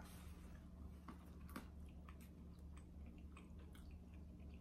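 Faint chewing of fried seafood, with small scattered clicks as the food is handled, over a low steady hum.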